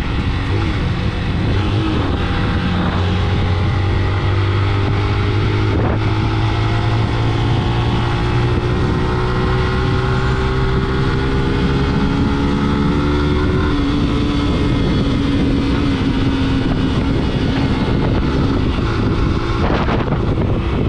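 Engine of a moving vehicle running steadily, its pitch sinking slowly through the middle as it eases off, with wind buffeting the microphone.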